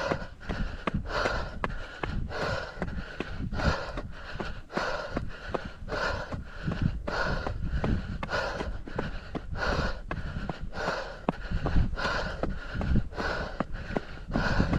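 Hard, rhythmic breathing of a runner climbing a steep trail, a little more than one breath a second, with faint footsteps crunching between breaths and low wind rumble on the microphone.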